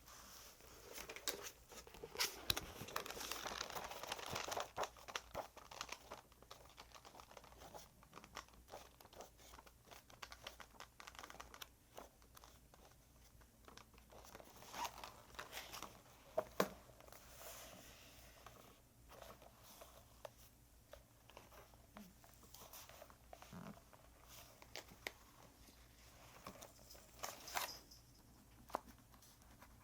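Faint paper handling: rustling and crinkling, busiest in the first few seconds, then scattered small taps and clicks.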